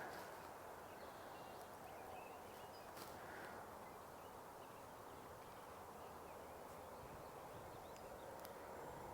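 Faint, steady outdoor background noise with a few faint, short bird chirps scattered through it.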